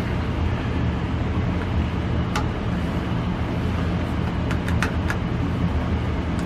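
Steady low rumble of water running into the water heater's tank as it is refilled, with a few light clicks about two seconds in and again near five seconds.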